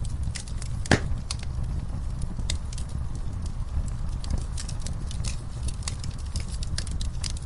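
Wood fire in a fireplace crackling, with scattered sharp pops over a steady low rumble; one loud pop about a second in.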